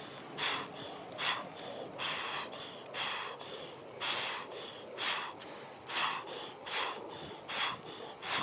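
A person breathing hard in quick, regular breaths, a little more than one a second.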